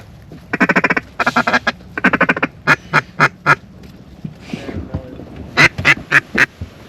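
Hand-blown duck call sounding three quick runs of quacks, then single spaced quacks, four and then four more near the end. A hunter calling to pintails overhead.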